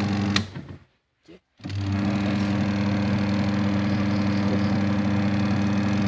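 Twin-tub washing machine's wash motor running with a steady electric hum. About half a second in there is a click and the motor stops, then it starts again about a second later and runs on until another click at the end. The wash motor is being run through the spin-dryer's timer switch because the wash timer switch is broken.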